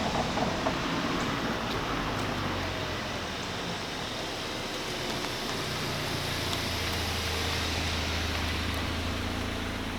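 Audi A3 2.0T with an APR downpipe and resonator delete cruising at steady speed: a low exhaust drone under steady tyre and wind noise, the drone growing steadier from about halfway.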